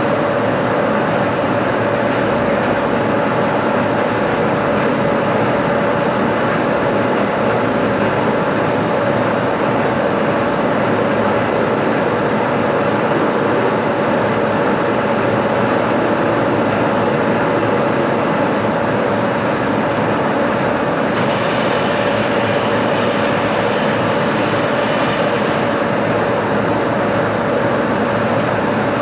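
Metalworking machine tool running steadily in a workshop, a constant hum with a steady tone. A harsher, brighter hiss joins it for a few seconds about three-quarters of the way through.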